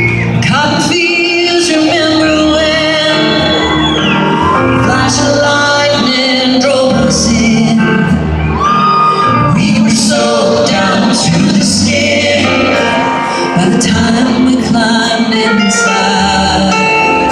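Live country band playing with a female lead vocal singing long, wavering held notes, heard in an arena.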